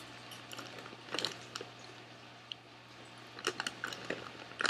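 Chewing popcorn, with a few short crackles and crinkles of the foil-lined snack bag as a hand reaches into it near the end.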